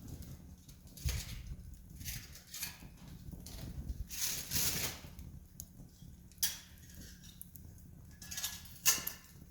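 Wood campfire crackling, with irregular pops and snaps of burning wood and a louder sharp pop near the end.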